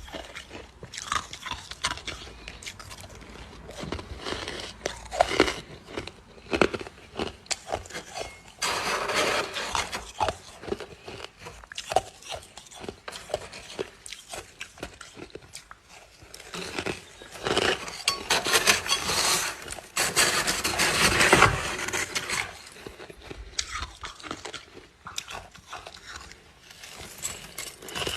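Ice being bitten and chewed close to the microphone: sharp cracks and crunches, with two longer spells of dense, continuous crunching about nine seconds in and again around eighteen to twenty-two seconds in.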